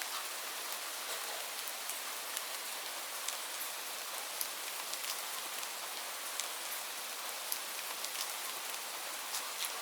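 Steady rain falling, an even hiss with many distinct drops ticking sharply on a surface.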